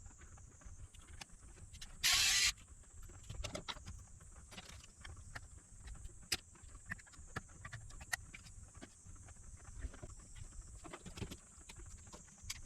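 Light, scattered clicks and taps of test probes and tools on the inverter's circuit board while its FETs are being measured, with one short, loud hiss about two seconds in.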